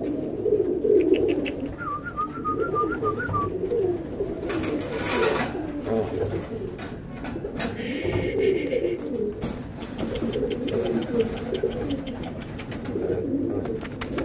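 Many pigeons cooing together in a loft, a continuous overlapping low cooing, with a brief high warbling note about two seconds in and short rushes of rustling noise around the middle.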